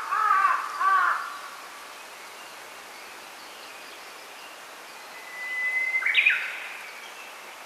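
Wild birds singing: a quick series of repeated calls in the first second, then, about five seconds in, a long held whistle that breaks into a short, fast flourish, over a faint steady hiss.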